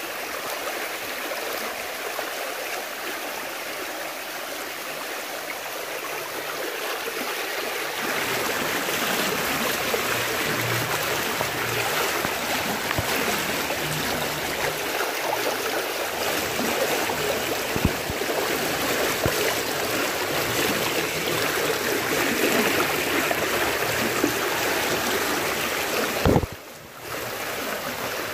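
Rushing floodwater, a steady rush of water that gets louder about eight seconds in, with a short break near the end.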